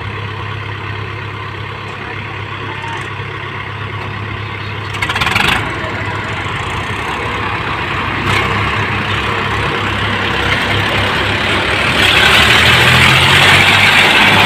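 Swaraj 855 tractor's three-cylinder diesel engine running steadily and growing louder, with a brief louder burst about five seconds in and a further jump in loudness near the end.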